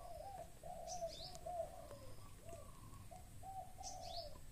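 Faint birds calling: a run of low, wavering cooing notes, with short high chirps about a second in and again near the end.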